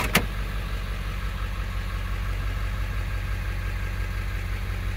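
Ford 7.3L Power Stroke turbo diesel idling steadily, heard from inside the cab. Two sharp clicks come right at the start.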